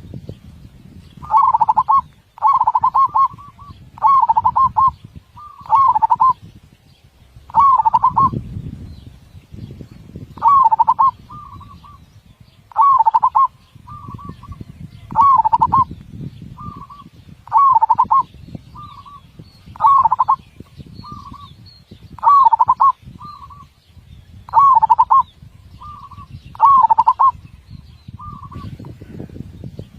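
Zebra dove (perkutut) singing: a deep, full-voiced cooing phrase of fast, tightly packed beats, repeated every second or two, with short single coos between the phrases later on. A low rumble of background noise lies underneath.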